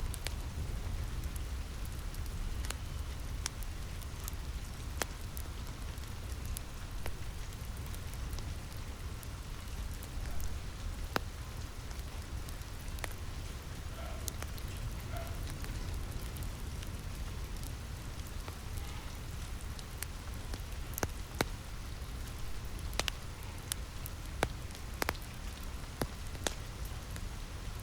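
Steady rain on a roof with a low rumble underneath, mixed with a wood fire crackling: scattered sharp pops, more of them in the second half.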